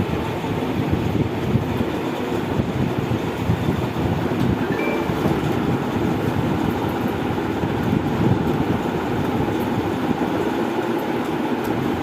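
GFC electric fan running, a steady low whooshing hum of motor and moving air.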